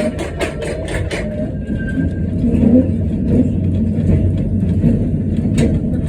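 Heritage electric tram running along its rails, heard from on board: a steady rumble, with a quick run of about five clicks in the first second and another single click later.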